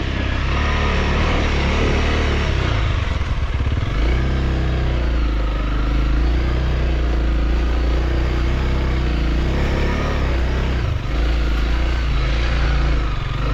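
Motorcycle engine running as the bike is ridden along a muddy trail, steady and loud, with a brief dip about eleven seconds in.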